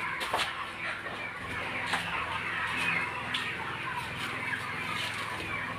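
A brood of young chicks peeping, many short high chirps overlapping without a break.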